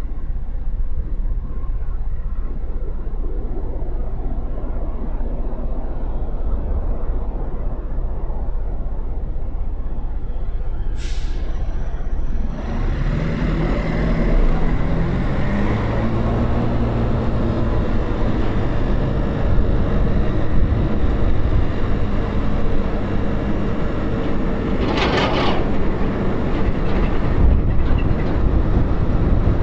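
Motorcycle engine and road noise while riding in city traffic: a low rumble at first, then about twelve seconds in the engine pulls away, its pitch climbing step by step through the gears. A brief high-pitched sound comes twice, once just before the pull-away and again near the end.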